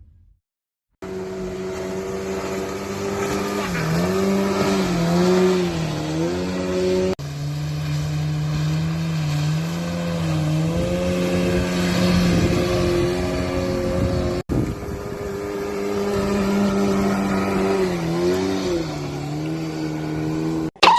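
Motorboat engine running steadily under way, its pitch dipping and rising several times as the throttle or load changes. The sound breaks off abruptly twice, at about 7 and 14 seconds in.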